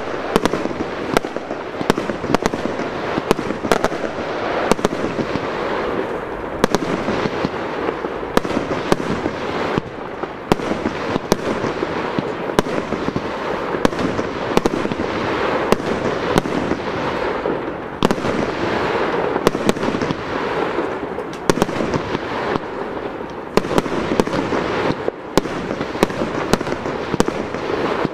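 Aerial fireworks bursting in a dense finale barrage: many sharp bangs one after another over a continuous rushing noise, with no pause.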